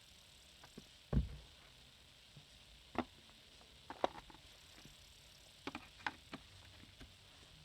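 Scattered clicks and knocks of a Shark upright vacuum's plastic parts being handled while getting at the brush bar, with a dull thump about a second in.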